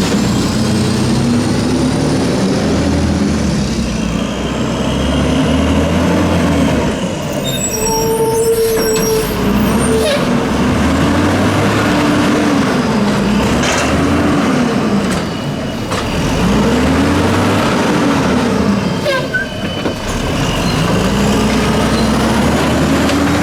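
Mack LE garbage truck with an Amrep Octagonal automated side-loader body working: its diesel engine revs up and back down again and again as the hydraulic arm cycles, with air-brake hissing and a few sharp knocks.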